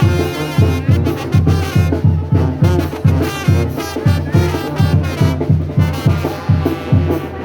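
Brass band music: trumpets and trombones playing over a steady bass beat of about three beats a second.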